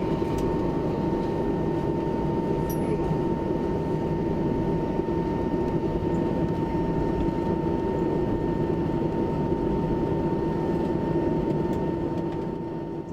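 Airbus A319 jet engines at taxi power: a steady rumble with a constant high whine on top, fading out at the end.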